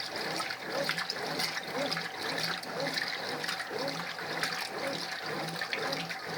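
Brastemp Ative! 11 kg top-loading washing machine agitating its rinse water: the motor whirs as the agitator swings back and forth in a steady rhythm, and the water sloshes with each stroke.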